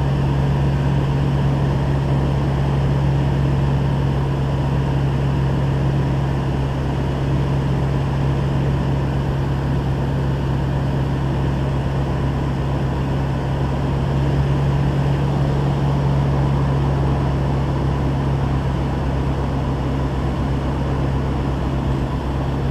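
A steady, unchanging low mechanical hum or drone.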